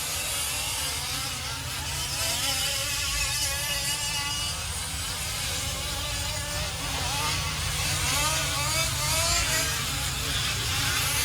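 Several 1/5-scale RC racing trucks' small two-stroke gas engines revving, their pitches rising and falling and overlapping as the trucks race around the track, over a steady low rumble.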